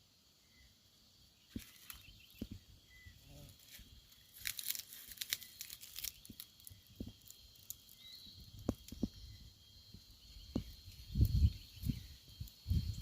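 Rustling and crackling with scattered clicks and a few low thumps, starting about a second and a half in, over steady high-pitched insect buzzing.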